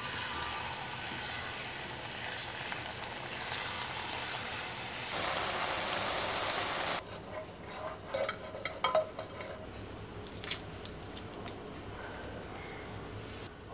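Jalebi batter deep-frying in a pan of hot oil: a steady sizzle that gets louder about five seconds in and cuts off about two seconds later. It is followed by a few soft clicks and taps.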